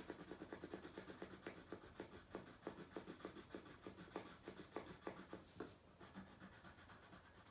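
Colored pencil shading on paper: fast back-and-forth scribbling strokes, several a second, growing fainter after about six seconds.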